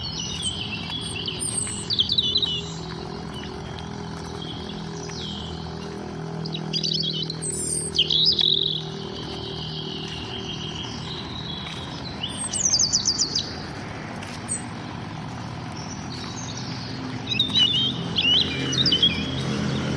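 Songbirds singing: short bursts of rapid, high chirping phrases every few seconds, with quieter calls between them, over a steady low hum.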